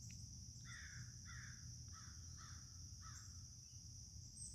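A bird calling five times in quick succession, faint, over a steady high chirring of insects such as crickets.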